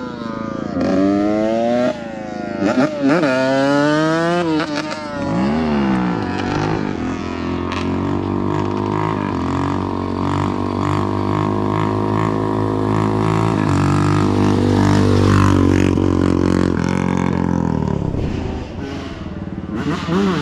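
Dirt bike engine accelerating through the gears: its pitch climbs and drops back several times in the first few seconds, then it holds a steady note at speed before easing off near the end.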